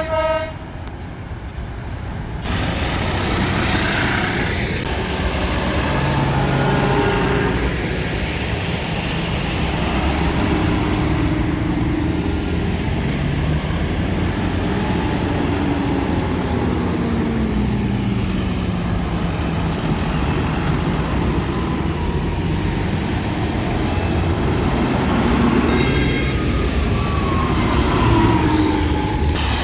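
Tractors driving past one after another, their engines running loudly, the pitch dropping as each goes by. A horn toots briefly at the very start.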